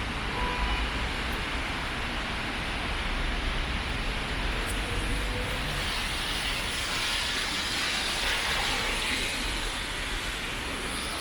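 Steady rushing hiss of wet-weather outdoor ambience in the rain, which grows brighter about halfway through.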